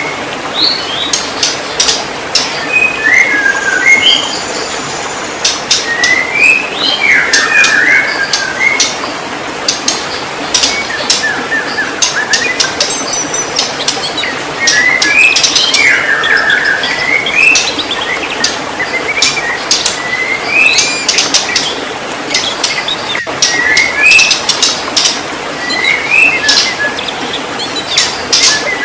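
White-rumped shama singing: short phrases of varied whistled notes that slide up and down, mixed with sharp clicking notes, coming every few seconds over a steady hiss.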